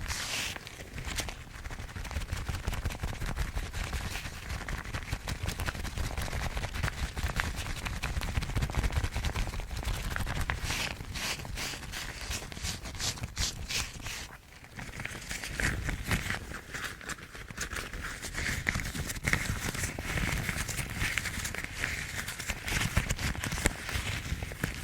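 Yellow rubber household gloves rubbed, scratched and scrunched close to the microphone, giving a dense crackling rustle of rubber. There is a brief lull about fourteen seconds in, after which a higher-pitched rubbing comes in.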